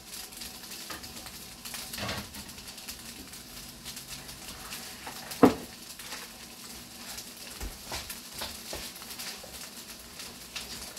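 Green beans sizzling in oil in a skillet over a gas flame, a steady hiss with fine crackles. One sharp knock about halfway through is the loudest sound.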